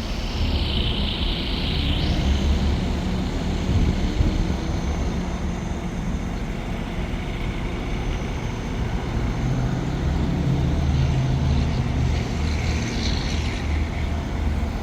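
Isuzu NPR box truck's 6.0-liter V8 running at a steady idle, a low rumble.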